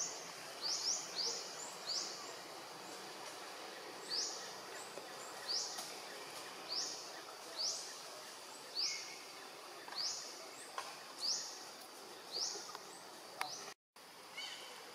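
A bird's repeated high call, short notes that sweep upward and hold, about one a second, over a steady forest background hiss. The sound cuts out completely for a moment near the end.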